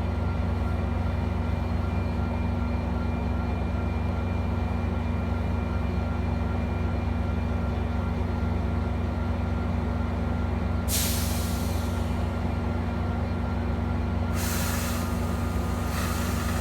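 Metra diesel locomotive running steadily at a station stop, with air-brake hisses: one about two-thirds of the way in, then two more near the end.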